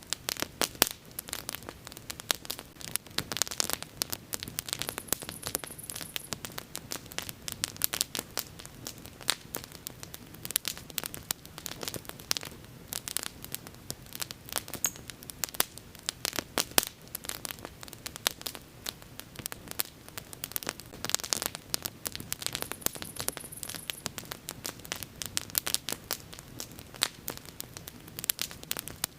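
Bonfire crackling: a dense, steady run of small pops and snaps from burning wood, with louder sharp cracks now and then.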